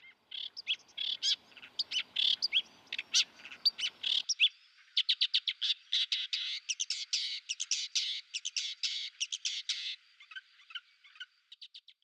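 A songbird singing, a fast run of high chirping notes that thicken into a rapid trill in the middle. A faint background hiss under the song cuts off suddenly about four seconds in.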